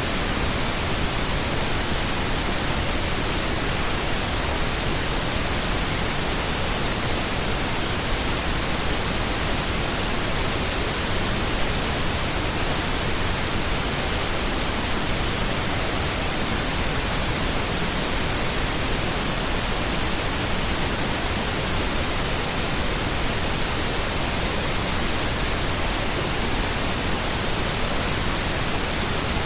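Steady pink noise: an even, unbroken hiss across the whole range, deeper and softer than white noise.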